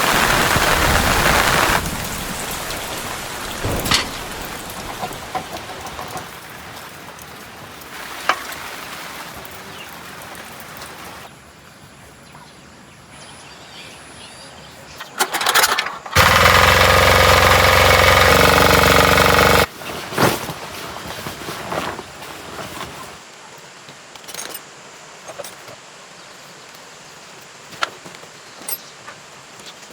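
Heavy rain at the start easing into a quieter patter with scattered knocks of work on metal. About sixteen seconds in, a small tiller engine runs loudly for about three and a half seconds and cuts off suddenly.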